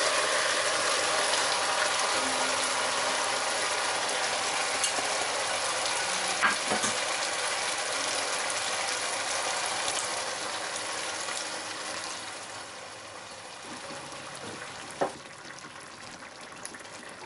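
Diced vegetables and tomato paste sizzling hard in a hot pot as a browned pork neck is set into it, the sizzle dying down over the last few seconds. A utensil clack about six and a half seconds in and a sharper knock about fifteen seconds in.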